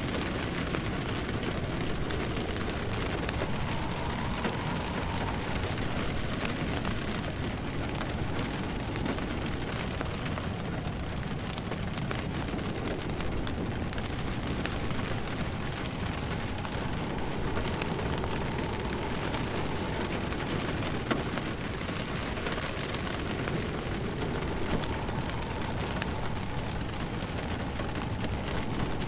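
Steady rain mixed with a crackling wood fire in a fireplace.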